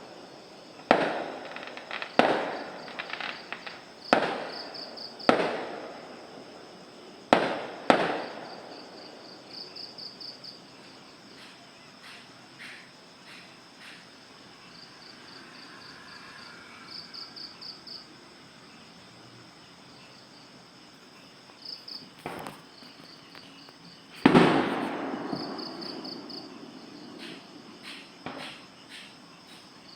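Fireworks going off: sharp bangs, each trailing off in a long echoing rumble. There are about six in the first eight seconds, a lull, then two more in the last third, the second of these the loudest. Crickets chirp in quick pulses throughout.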